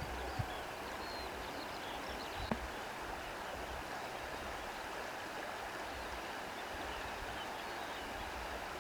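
Steady wash of sea water and reeds rustling in the wind, an even hiss with a faint click about half a second in and another about two and a half seconds in.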